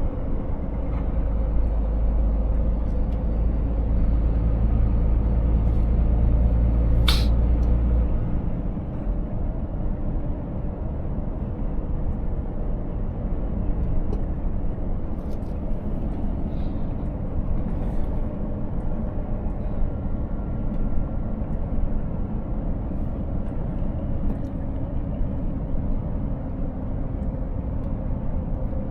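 Scania S 500 truck's 13-litre straight-six diesel engine and road noise heard from inside the cab while driving. A heavy low drone eases off about eight seconds in, and a brief sharp hiss comes just before that.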